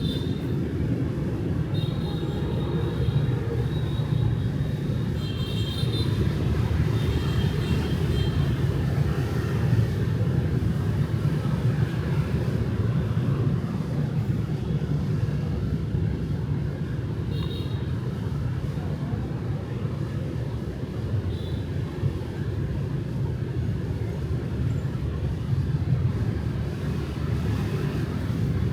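Steady rumble of night street traffic, cars and motorbikes passing. Short high-pitched tones sound several times in the first eight seconds and once more partway through.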